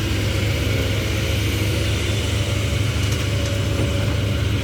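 Heavy diesel engine idling steadily with a deep low rumble.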